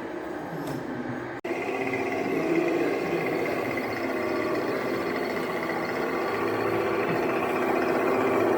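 A 1/14-scale radio-controlled earthmoving model running with a steady mechanical drone. The sound cuts out briefly about a second and a half in, then goes on slightly louder.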